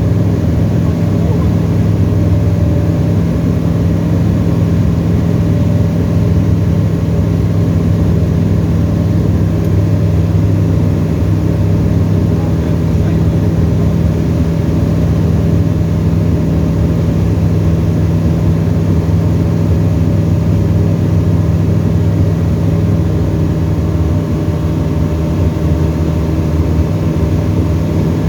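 Tecnam ultralight's piston engine and propeller droning steadily in the cockpit, at constant power with no change in pitch.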